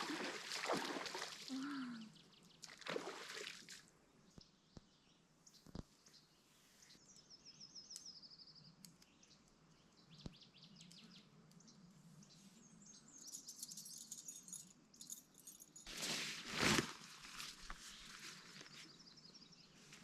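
Quiet outdoor ambience with scattered bird calls, including a short high trill about seven seconds in, a few soft clicks, and a brief louder burst of noise near the end.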